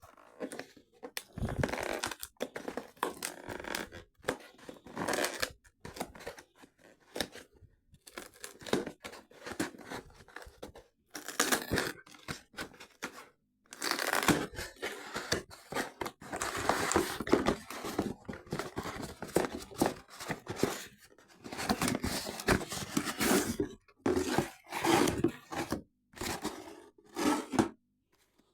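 Cardboard box and plastic packaging being opened by hand: repeated tearing, crinkling and scraping in irregular bursts with short pauses.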